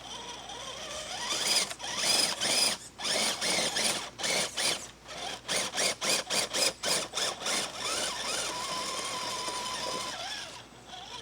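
Electric motor and gearbox of an RC rock crawler whining as it is driven, the pitch rising and falling in short throttle bursts, then holding a steady whine for a couple of seconds before it stops near the end.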